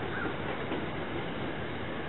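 Steady rumble of an approaching SEPTA Silverliner IV electric commuter train, with a crow cawing once just after the start.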